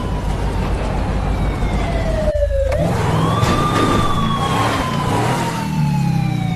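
Police siren on the wail setting, its tone sliding slowly down, breaking off briefly about two and a half seconds in, then sweeping back up and falling slowly again. A vehicle engine runs underneath, its pitch rising and falling.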